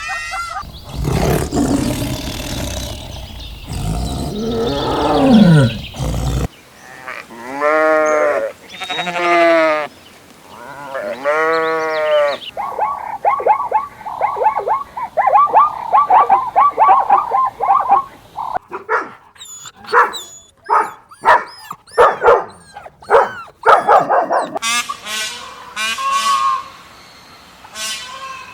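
Several different farm animals calling one after another in short cut-together clips: a low call with a falling pitch, then three long pitched calls, a fast run of repeated calls, sharp clipped calls, and high calls near the end.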